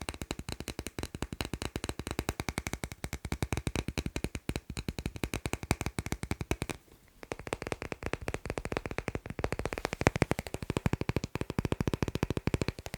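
Fast tapping on magnets: a dense run of rapid, sharp taps, many per second, with a brief break about halfway through before the tapping resumes.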